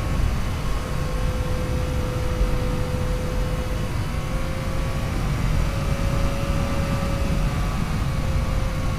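Yamaha FJ-09's 847 cc inline-triple engine running at a steady cruise, its note holding nearly level, under a heavy low rumble of wind and road noise.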